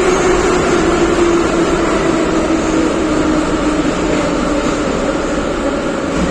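Inside an 81-714 metro car under way: steady rumble of wheels on rails with the traction motors' whine falling slowly in pitch as the train slows down.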